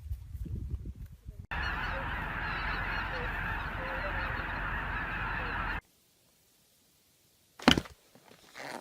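Many geese honking at once in a dense, continuous din for about four seconds, cutting off suddenly. A short sharp noise follows near the end.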